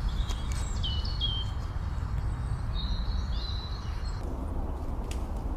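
Outdoor ambience: small birds chirping in a series of short high whistles and chirps over a steady low rumble of background noise.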